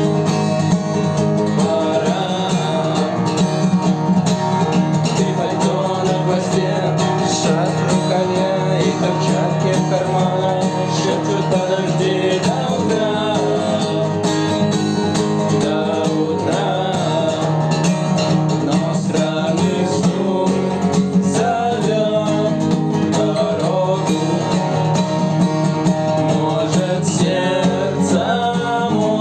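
Guitar playing steady rhythmic chords and picked notes, an instrumental passage without vocals.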